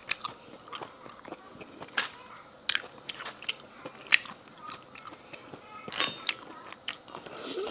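Close-up eating sounds of a person chewing seasoned sea snails, with frequent short, sharp mouth smacks and clicks.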